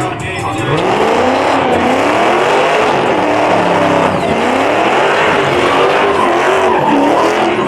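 Muscle car engine revving up and down about once a second, with tyres spinning and squealing on the pavement.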